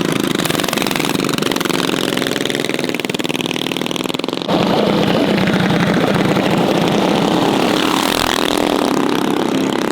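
Mini bike engines running loudly and steadily. The sound changes abruptly and gets a little louder about four and a half seconds in.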